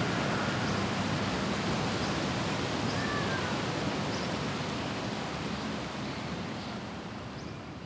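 Steady hiss of noise, slowly fading toward the end, with a faint short whistle-like chirp about three seconds in.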